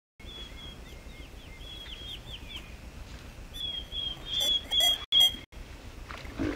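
A small songbird calling outdoors: runs of short, high, quickly repeated chirps, with a few sharp clicks near the middle, over a low steady outdoor rumble.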